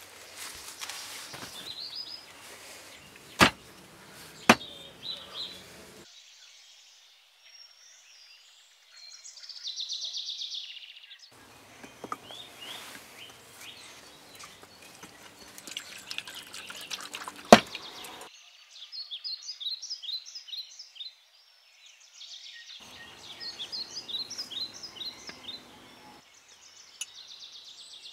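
Birds chirping in runs of short repeated calls over a noisy outdoor background, with three sharp knocks, the loudest a little past the middle.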